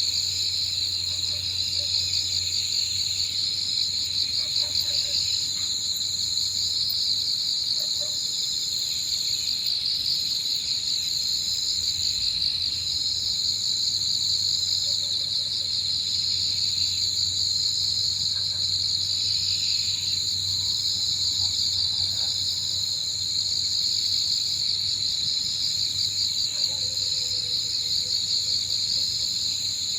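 Evening chorus of crickets and other insects, many high trills overlapping into one steady shimmering band, with a lower pulsing chirp fading in and out. A faint low rumble lies underneath.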